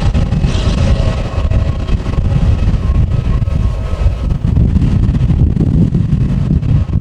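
Strong wind buffeting the microphone with a loud, fluttering rumble, nearly drowning out the steady whine of an ANA Airbus A320's jet engines running beneath it.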